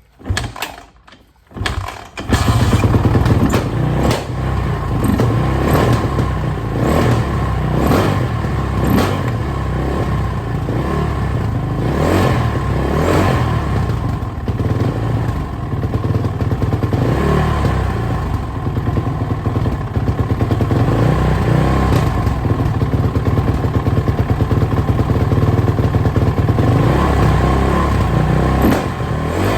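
Suzuki RM-Z450's single-cylinder four-stroke engine kicked over, catching about two seconds in, then running loud and uneven with its revs jumping all over the place, which the owner takes for a lean mixture.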